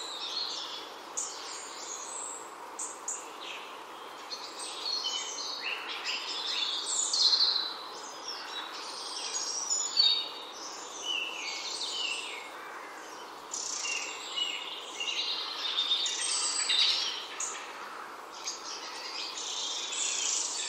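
Many small birds chirping and singing, with overlapping trills and calls throughout, over a steady background hiss.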